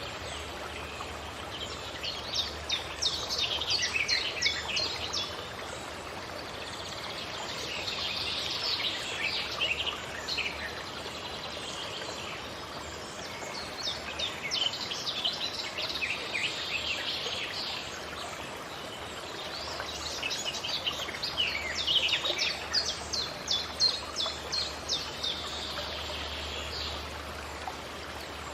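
Songbirds singing in the forest: four bursts of rapid, high chirping notes, each lasting a few seconds, over a steady background hiss.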